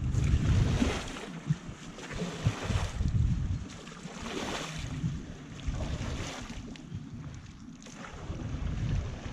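Wind buffeting the microphone over the sound of water moving around a canoe on the river. The water hiss swells and fades every second or two.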